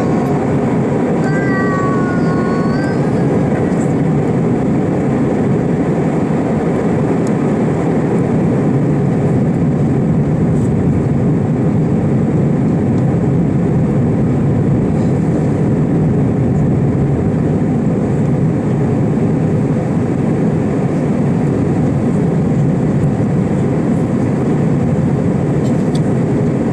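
Airbus A320 airliner heard from inside the passenger cabin during takeoff and climb: a loud, steady rumble of engines and airflow. A short wavering high tone sounds twice in the first few seconds.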